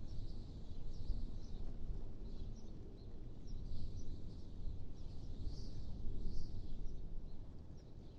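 Wind ambience: a low, steady wind noise that swells and eases in gusts, with small birds chirping now and then over it.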